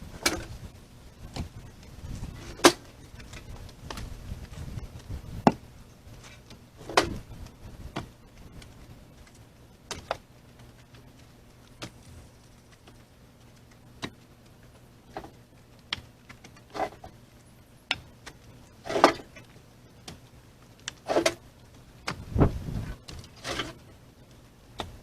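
Split firewood being unloaded and tossed onto a pile: sharp, irregular clunks of wood on wood, a second or two apart, some with a brief ringing.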